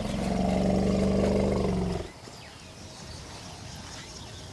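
African elephant giving a low rumbling call that lasts about two seconds and then stops.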